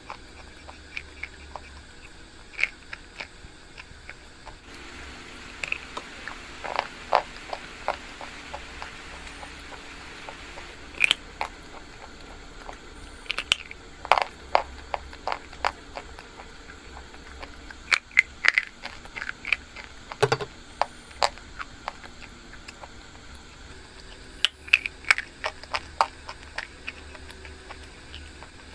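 Close-up crisp crunching and crackling of something being crushed, in short irregular snaps with brief pauses between them.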